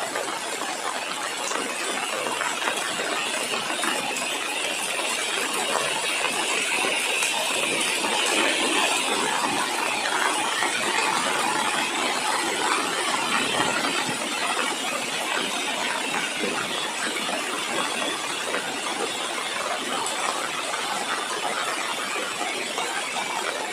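Light rain falling steadily: a dense patter of many small drops.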